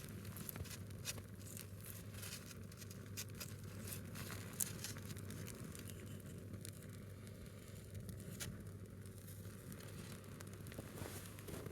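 A single log of firewood burning, crackling with many small scattered pops and one sharper pop about four and a half seconds in.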